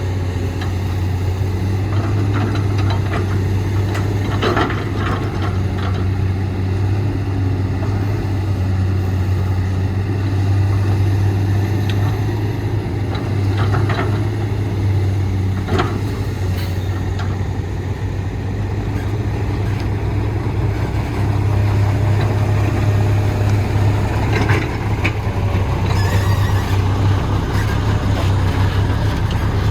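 Heavy diesel construction machinery running steadily with a deep, even engine drone. A few sharp knocks and clanks sound over it, about four seconds in, around fourteen to sixteen seconds in, and near twenty-five seconds in.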